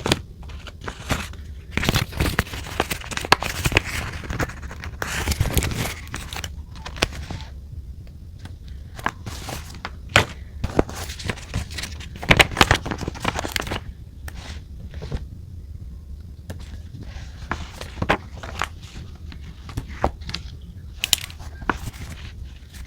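Paper and stationery being handled on a desk while journaling: irregular taps, scratches and rustles, busiest in two stretches with quieter moments between.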